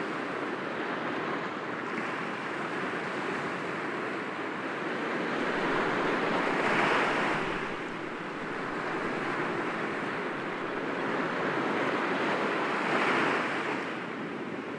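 Sea waves breaking gently against rocks over a steady wash of surf, two waves swelling and breaking louder, about halfway through and near the end.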